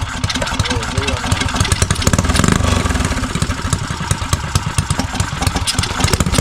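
Motovox mini bike's small single-cylinder engine running just off idle with the choppy, lopey beat of its cam, swelling briefly about two seconds in. It is struggling to settle into a steady idle.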